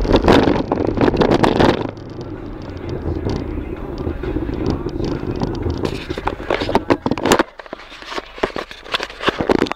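Renault 19 1.4 Energy engine and road noise heard inside the cabin while driving, loudest in the first two seconds. About seven seconds in the low engine hum drops away and the recording fills with clicks, knocks and rubbing from the camera being handled.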